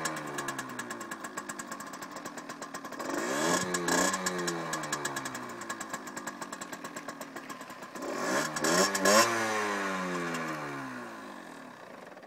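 CPI SX motorcycle engine running on a cold start at −16 °C. It is revved up twice, about three and a half and eight and a half seconds in, and each time sinks back to a low, uneven idle. Near the end the engine's sound dies away.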